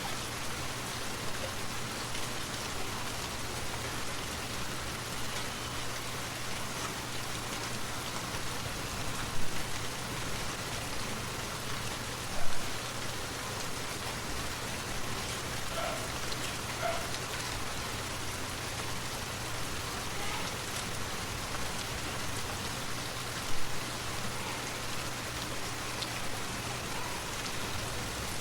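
Steady rain making an even hiss, with three short louder hits scattered through and a low steady hum beneath.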